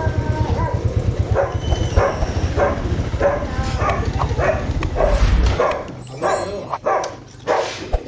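A dog barking again and again over a motorcycle engine's steady low throb; the engine cuts off about five and a half seconds in.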